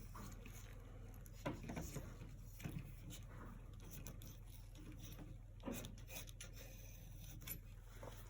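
Faint scraping and tapping of a brush working acrylic paint on a canvas: a few short strokes and taps over a steady low hum.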